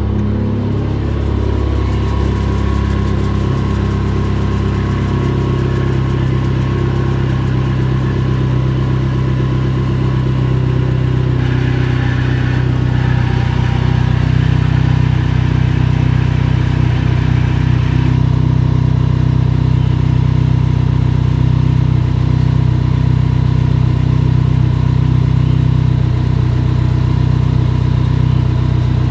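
Dodge SRT-4's turbocharged 2.4-litre four-cylinder idling cold, steady, with a whirring noise from the clutch release (throw-out) bearing. The noise goes away when the clutch pedal is pressed. A hiss runs for several seconds near the middle.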